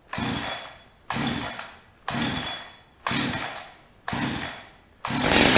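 Holzfforma 372XP two-stroke chainsaw being pull-started cold on full choke with the decompression valve open: about five recoil-starter pulls, roughly one a second, each turning the engine over. On the last pull, near the end, the engine briefly fires, a first sign of life.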